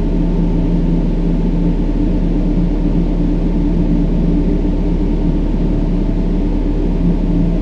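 Brown noise: a steady, deep rumbling hiss with most of its weight in the low end, with a few faint steady tones running through it.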